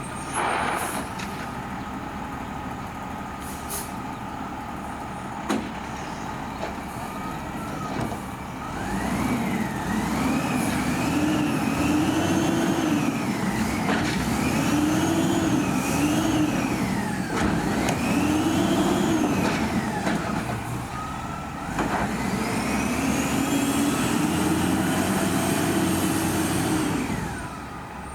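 Diesel engine of a Peterbilt 320 garbage truck running, with a short hiss of air about half a second in. From about nine seconds the engine revs up and down in repeated surges, settles briefly, then revs high again before dropping back near the end.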